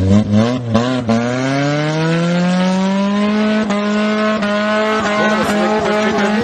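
First-generation Honda CR-V's engine revving hard. After a couple of quick blips its pitch climbs steadily for about three seconds, then holds at high revs.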